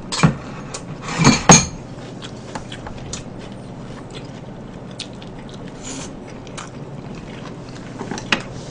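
Eating sounds close to the microphone: a few sharp clicks and smacks in the first two seconds, the loudest about a second and a half in, then soft chewing of stir-fried pork belly and kimchi with scattered small clicks of chopsticks and dishes.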